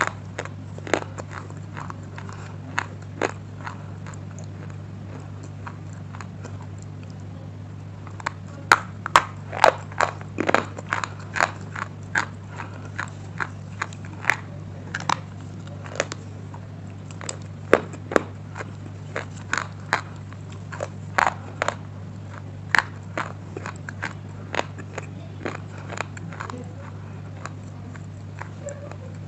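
Close-up biting and chewing of hard, crunchy slate pieces: sharp, irregular crunches and snaps, coming in quick clusters with short gaps between bites, over a steady low electrical hum.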